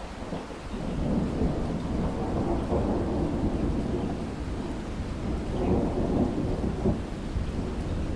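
Thunder rumbling low under steady rain. The rumble builds about a second in and swells again a few seconds later.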